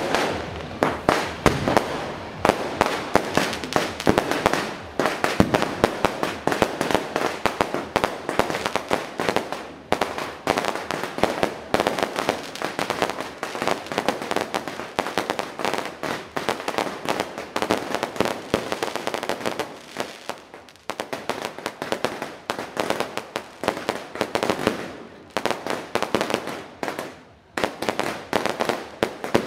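Fireworks barrage: a dense, continuous stream of sharp bangs and crackles as aerial fireworks fire and burst overhead. The volley eases briefly about twenty seconds in and again near the end.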